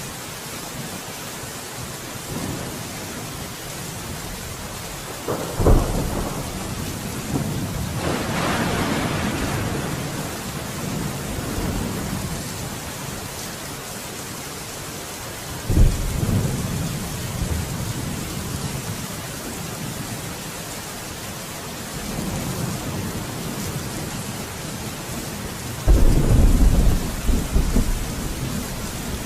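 Steady rain falling through a thunderstorm, with sharp thunder claps about five seconds in and about sixteen seconds in, each rolling on afterwards, and a louder, longer peal of thunder rumbling from near the end.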